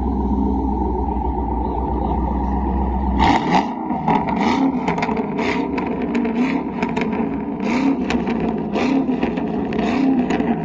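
Car engine idling with a low rumble, then about three seconds in it is revved, rising and falling over and over, with sharp crackling pops through the revs.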